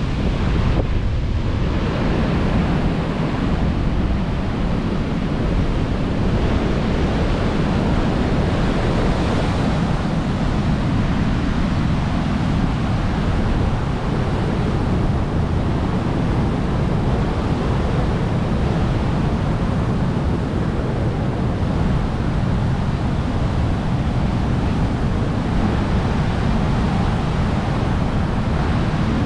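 Storm surf breaking and washing on a beach, a steady loud rush, with wind rumbling on the microphone.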